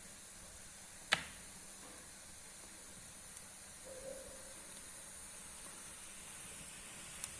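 Wood fire burning in a fireplace: a faint steady hiss with one sharp pop about a second in and a smaller crackle near the end.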